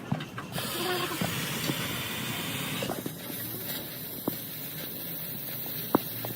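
A steady pressurised hiss that shifts higher about three seconds in, with a few sharp taps.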